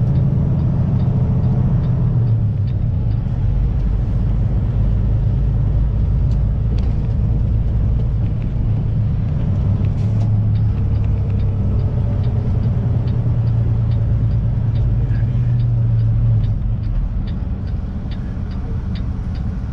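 Semi-truck's diesel engine droning steadily under way, heard from inside the cab, easing off near the end. A faint regular ticking, about twice a second, runs along with it.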